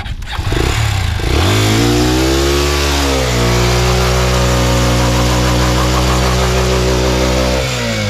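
Motorcycle engine revving up about a second and a half in, holding at steady high revs, then easing off near the end.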